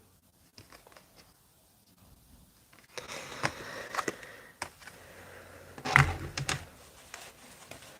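Tarot cards being handled on a table: scattered light clicks and rustles, with a soft knock about six seconds in.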